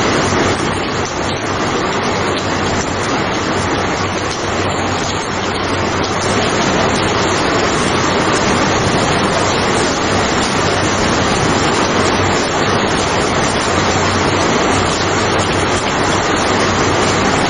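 Steady rain, an even hiss with no thunderclap or rumble standing out.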